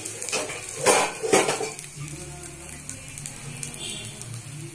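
Appam batter sizzling in hot oil in a multi-cup appam pan, a steady frying hiss, with two sharp metal clinks about a second in, half a second apart.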